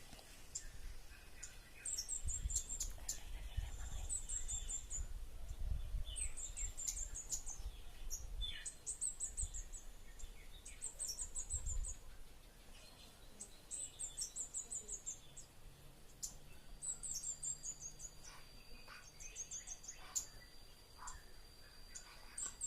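Kemade (toli-toli) bird song: short, high, rapid chirping phrases repeated every second and a half or so.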